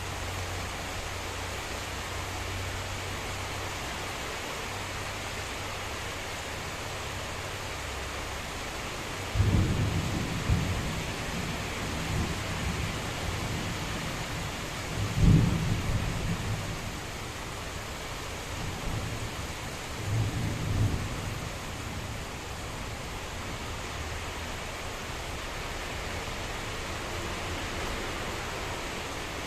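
Heavy rain falling steadily, with three rolls of thunder: one about a third of the way in, the loudest and sharpest about halfway, and a shorter one about two-thirds through.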